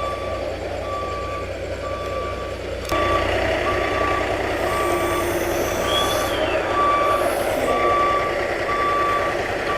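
A moving truck's reversing alarm beeping steadily, a single tone a little more than once a second, over its running engine.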